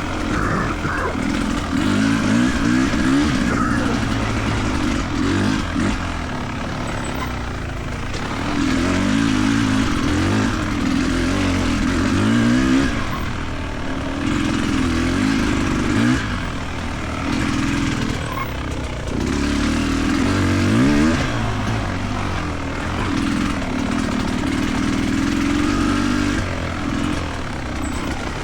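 A motor vehicle's engine running, its pitch rising and then dropping back several times as it accelerates and shifts.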